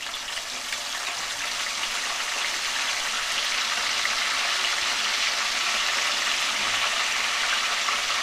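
Chopped green garlic leaves sizzling in hot desi ghee in a kadhai. The sizzle grows louder over the first few seconds, then holds steady.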